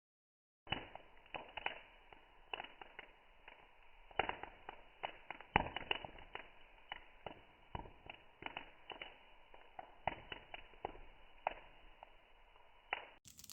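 Campfire burning with irregular crackles and sharp pops from the wood, starting shortly after a moment of silence.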